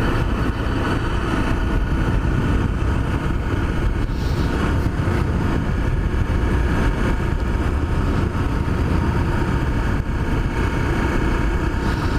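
Honda CRF250L's single-cylinder four-stroke engine running at a steady pace while riding, with a constant low rumble and no revving.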